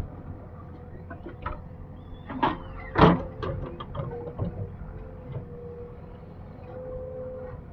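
JCB 3DX backhoe loader at work: its engine runs steadily with a constant whine, and a loud metallic clank comes about three seconds in, with a smaller knock just before it and lighter knocks after.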